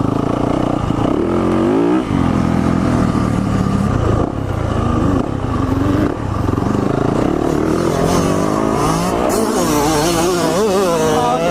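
Yamaha four-stroke motocross bike ridden hard on a dirt track, its engine revving up and down under changing throttle, with brief throttle chops or shifts about two and six seconds in.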